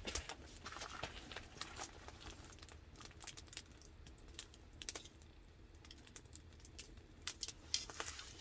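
Wood fire crackling, with irregular sharp snaps and pops of burning wood.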